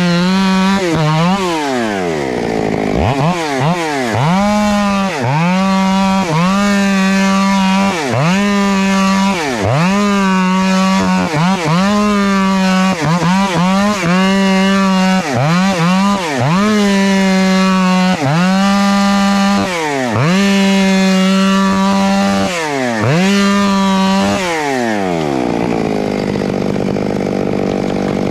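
Two-stroke chainsaw cutting through a tree trunk at full throttle. The engine pitch dips sharply and climbs back every second or two, then near the end the saw falls back to a lower, steady run.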